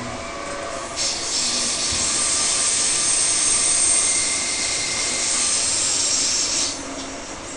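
Loud steady hiss in an electric suburban train carriage, starting abruptly about a second in and cutting off suddenly about a second before the end.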